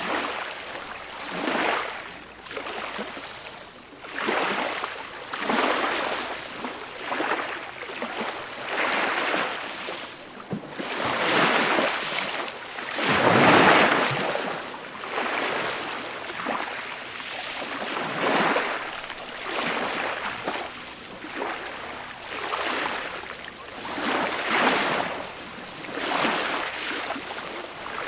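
Small, gentle waves breaking and washing up a beach, a soft rush of surf that swells and falls back every second or two, with one larger wave about halfway through.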